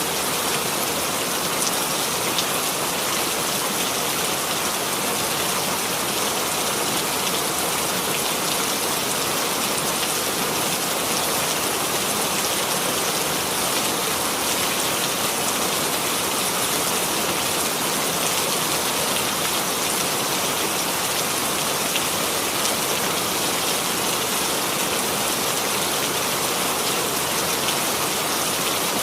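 Steady rainfall, an even hiss of rain with fine patter of drops landing on a surface.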